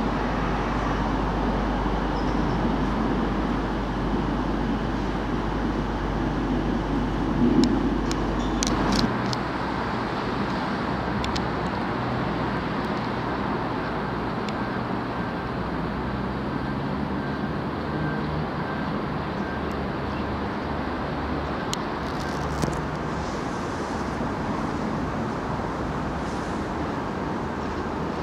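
Diesel multiple-unit trains running through a station: a steady diesel rumble with a deep hum that drops away about nine seconds in, around a few sharp clicks, and a lighter, steadier running noise after that.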